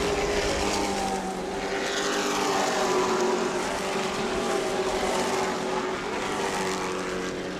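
Racing trucks' engines running at speed on an asphalt short track, the engine pitch sweeping up and down as trucks pass by.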